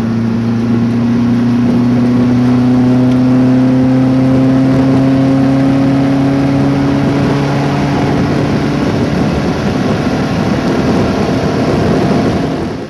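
Mk1 VW Caddy's 1.9-litre eight-valve Golf GTI engine on twin Weber 40 carburettors, breathing through a full stainless exhaust, pulling on the move with its revs climbing slowly and steadily.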